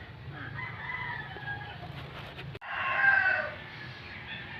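A rooster crowing: a faint call early on, then a louder, longer crow about three seconds in that falls in pitch at its end, over a steady low background hum.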